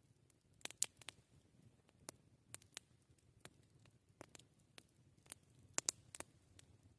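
Campfire crackling: sharp, irregular pops and snaps of burning wood, with a louder cluster of pops about a second in and another near the end.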